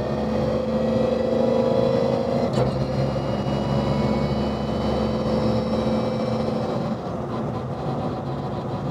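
Toyota GR Yaris's turbocharged three-cylinder engine running at a steady cruise, heard from inside the cabin with road and tyre noise. There is a sharp click about two and a half seconds in, and the engine note eases slightly near the end.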